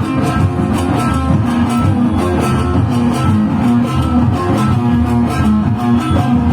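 Instrumental band music, led by a plucked string instrument over a repeating bass line with a steady beat.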